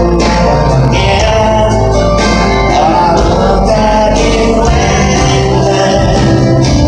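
Live country music: an amplified band playing with singing, loud and steady throughout.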